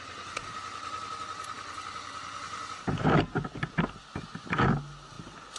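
Car running on the road, heard from a dashcam, with a steady tone over the road noise, then two loud knocks about three and four and a half seconds in.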